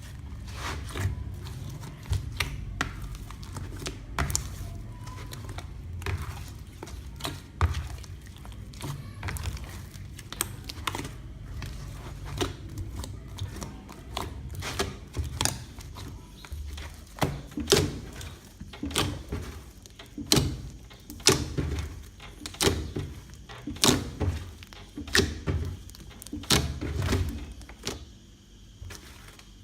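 Hands squishing and poking a large mass of mixed homemade slime, making irregular clicks and pops, louder and more spaced out from about halfway through.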